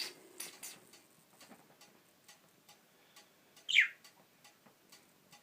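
Budgerigar giving one loud, downward-sweeping chirp nearly four seconds in, with faint irregular clicking around it.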